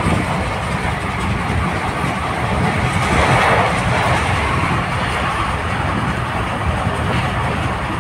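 Passenger train running at speed, heard from inside the coach beside an open window: a steady rumble of the wheels on the track with a rush of passing air, swelling briefly about three seconds in.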